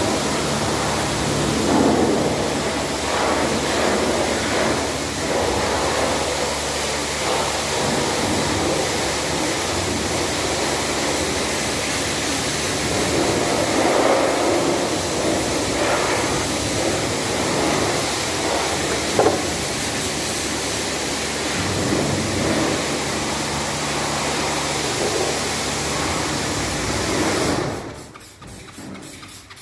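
Steady hiss of a car-wash sprayer applying cleaner, with a low machine hum underneath; the sound drops away sharply near the end.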